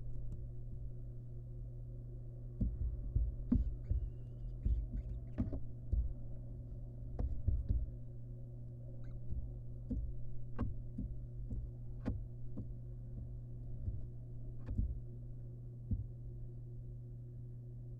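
Barn owl nestling moving about in its nest box: irregular low thumps and scuffs with a few sharp knocks, over a steady low hum. The thumps come thickest in the first half and thin out after about 16 seconds.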